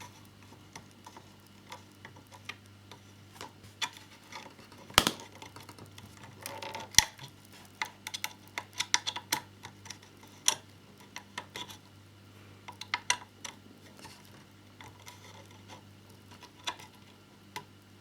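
Small clicks and taps of a screwdriver and tiny screws being worked into a plastic-and-metal scale model motorcycle, with two sharper knocks about five and seven seconds in, over a faint steady low hum.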